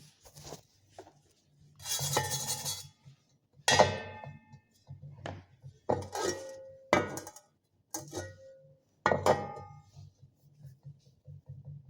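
Small hard objects, likely metal parts and tools, being handled and set down: a scrape about two seconds in, then half a dozen knocks and clinks that ring briefly.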